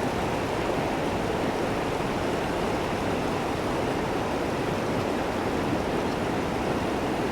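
River water rushing steadily over a weir, an even roar with no breaks. The flow is somewhat down from its peak three days after heavy rain.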